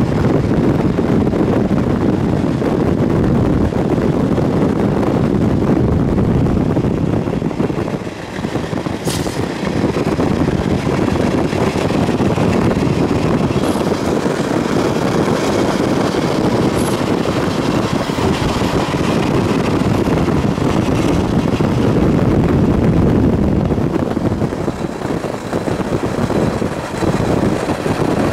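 Norfolk Southern freight train rolling past, a steady rumble of wheels on rail, dipping briefly about eight seconds in.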